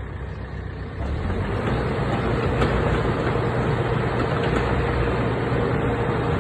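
JCB JS130LC tracked excavator's diesel engine running steadily, getting louder about a second in and then holding a steady hum.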